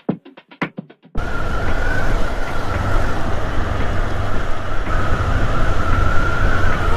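Honda CB500F motorcycle being ridden, with heavy wind rumble on the microphone and a wavering high whine on top. It cuts in abruptly about a second in, after a short burst of music.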